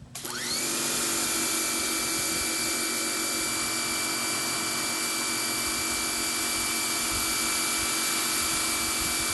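Pressure washer starting as the trigger is pulled, spraying through a 25-degree green nozzle. Its motor and pump give a whine that rises and settles within about half a second, then run steadily over the hiss of the spray.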